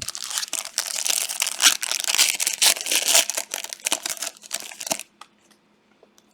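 Crinkly foil trading-card pack wrapper being torn open and handled, a dense crackling for about five seconds that stops abruptly.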